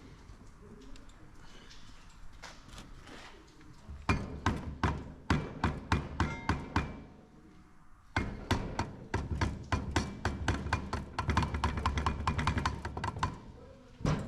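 Two runs of rapid, sharp knocks, several a second: the first lasts about three seconds, the second about five.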